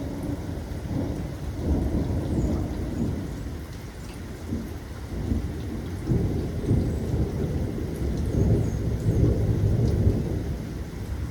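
Rolling thunder rumbling over steady rain, the rumble rising and falling in waves and loudest in the second half.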